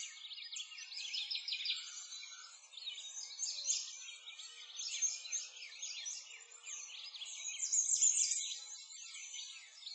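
Dense chorus of many small birds chirping and singing at once, a steady tangle of quick high chirps and trills with brief louder swells.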